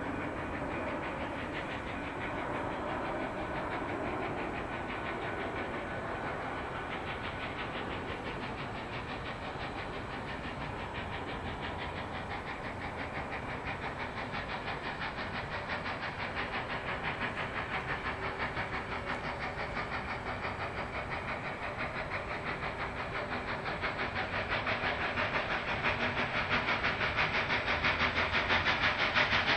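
Steam locomotive CNR 3254 working past with a fast, even beat of exhaust chuffs over a steady rumble and hiss, growing louder toward the end as it draws near.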